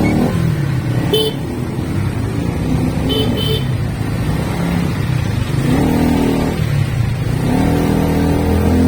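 Motorcycle engine running on the road, rising in pitch as it accelerates about six seconds in and again near the end. Short horn beeps sound about a second in and twice a little after three seconds.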